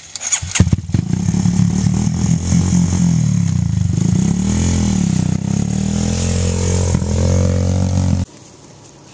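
A four-wheeler's engine cranks and catches, then runs with its revs rising and falling, and cuts off abruptly near the end.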